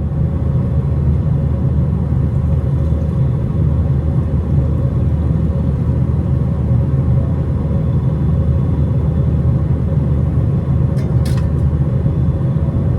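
Steady, loud low rumble heard from inside a moving vehicle, with a brief faint click about eleven seconds in.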